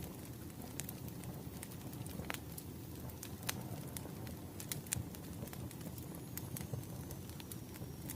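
Bonfire crackling: irregular sharp pops and snaps over a steady low rumble of burning. A faint thin high whistle, slowly falling in pitch, comes in near the end.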